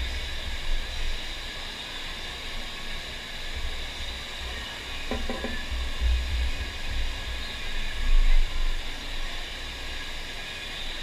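Steady rushing hiss of water sheeting over a FlowRider surf machine's wave bed.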